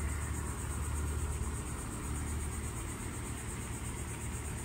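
Robot vacuum cleaners running: a steady low hum of suction motors and brushes.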